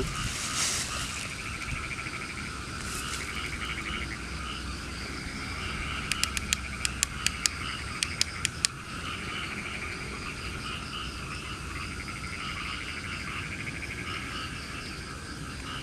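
Night chorus of frogs and insects calling in steady, fast-pulsing trills. About six seconds in, a quick run of about a dozen sharp clicks lasts a couple of seconds.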